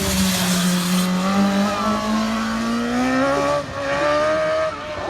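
Racing motorcycle engine under hard acceleration, its pitch climbing steadily for about three seconds, then a brief dip in sound just after three and a half seconds before the engine note carries on.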